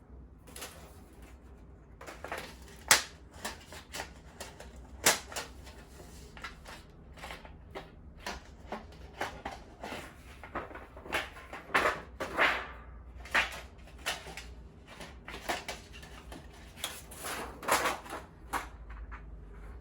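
Objects being handled: an irregular run of sharp clicks and knocks with a few short rustling or scraping sounds, over a low steady hum.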